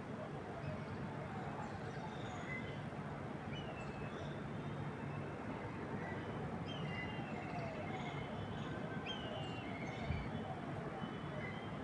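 Several wild birds chirping with short calls and quick falling whistles over a steady, rushing background noise, with a soft low thump about ten seconds in.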